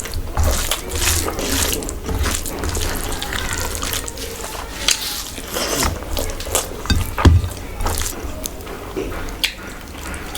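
Close-miked wet eating sounds: irregular chewing, smacking and squelching of rice and curry with gravy, broken by small clicks.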